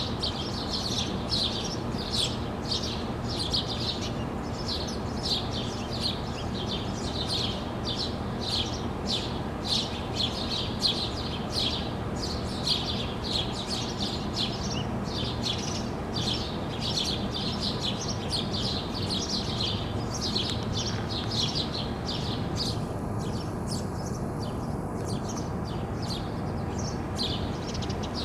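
Small birds chirping over and over, about two short high chirps a second, with a brief lull about two-thirds of the way through, over a steady low background hum.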